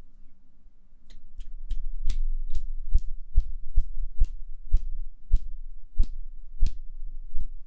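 Soft, regular thumps close to the microphone, about two to three a second, starting about a second in.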